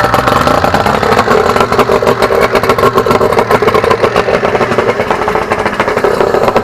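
A small engine running steadily at a fast idle, with a rapid even firing pulse.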